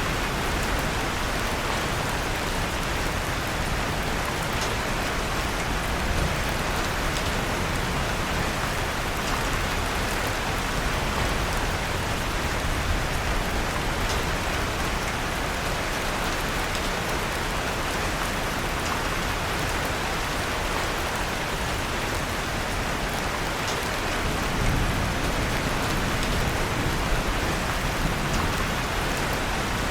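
Steady rain falling, with faint crackling from a fireplace scattered through it. A soft low rumble swells briefly near the end.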